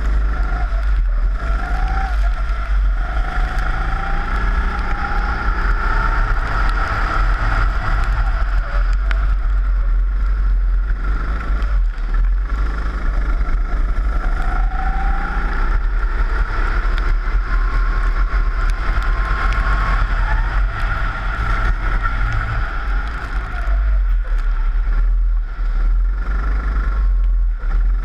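Rental kart's four-stroke engine heard onboard, running hard, its pitch rising as it accelerates and dropping as it lifts, several times over, with a constant deep rumble underneath.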